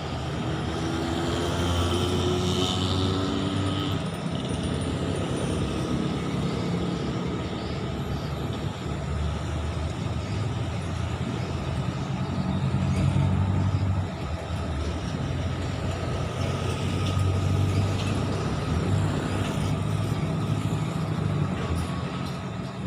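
Low rumble of motor-vehicle traffic, with engines swelling and fading every few seconds.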